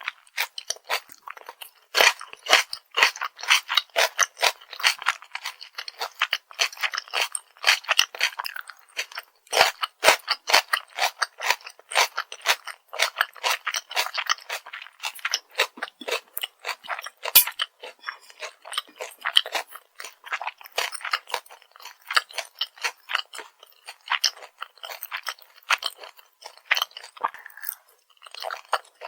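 Close-miked crunchy chewing of crispy fried food, a dense run of irregular crackling crunches.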